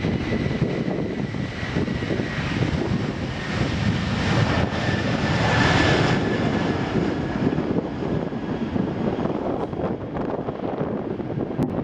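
Jet airliner engines running, a loud rushing noise with a faint high whine that slowly drops in pitch, swelling to a peak about halfway through and then easing off.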